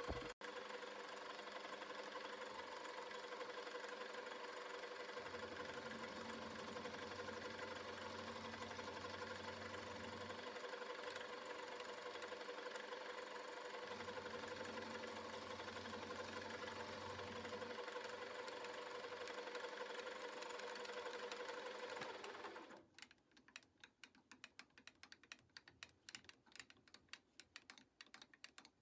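Small milling machine running steadily with a whining spindle while cutting a slot in a steel counterweight. Twice a deeper sound joins it for several seconds, as the cutter takes a pass. The machine shuts off near the end, leaving faint light clicks.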